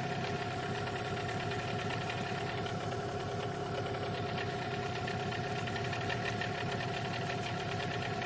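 Outboard boat motor running at a steady, even speed while being run in (break-in).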